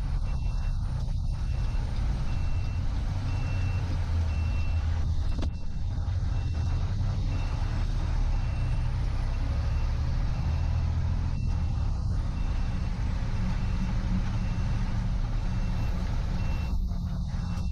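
Fire engine's motor running with a heavy, steady low rumble, and a high electronic beep repeating at an even pace, a little more than once a second.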